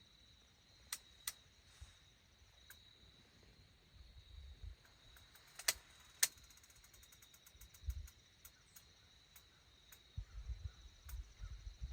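Quiet outdoor background with a few sharp clicks, a faint steady high tone and a run of faint, evenly spaced ticks in the second half, with soft low bumps now and then.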